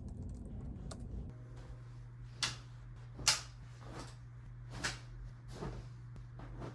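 Faint light clicks, then a steady low hum with four or five short knocks or clunks spread across it; the loudest knock comes a little past the middle.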